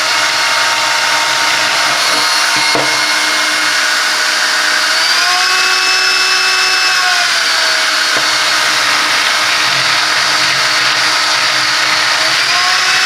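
Silvercrest 18 V cordless upright vacuum cleaner running with its rotary floor brush spinning: a steady motor whine. The pitch steps up about five seconds in, drops back a couple of seconds later, and rises again near the end.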